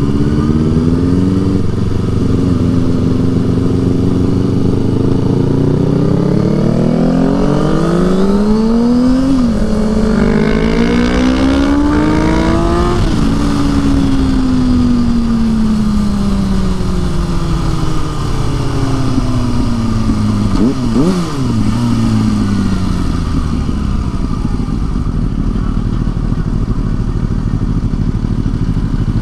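Motorcycle engine under way, revving up through the gears with shifts in between, then winding down as it slows, with a few quick throttle blips on the downshifts before it settles to a low, steady run.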